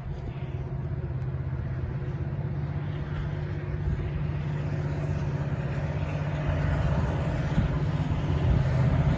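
Diesel locomotives of an approaching freight train, led by EMD SD70M-2 units with two-stroke V16 engines, a steady low engine drone that grows slowly louder as they draw near.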